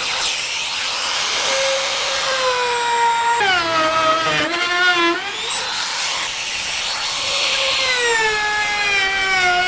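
Electric power tool motor running at a high, steady whine, its pitch sagging as it is loaded in the wood twice: once about three and a half seconds in, and again toward the end, then climbing back.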